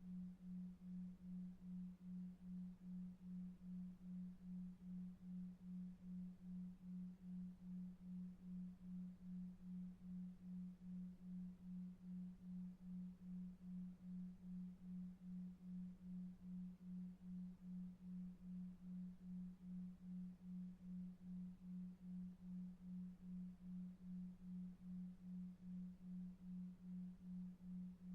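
Sleep-sound track: a low pure tone pulsing evenly about two and a half times a second, a 2.5 Hz "delta wave" beat, over faint brown noise.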